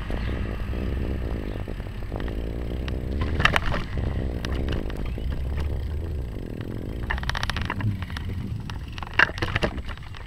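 Riding noise of a bicycle picked up by a camera strapped to its handlebars: a steady low rumble of wind and road vibration with constant rattling, and a few louder rattles or scrapes partway through.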